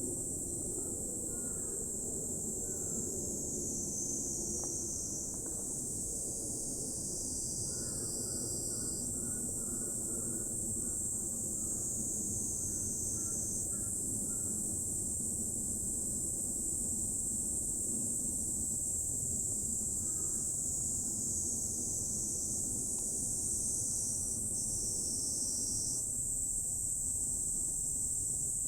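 Steady high-pitched insect chorus shrilling without a break, over a low, even rumble.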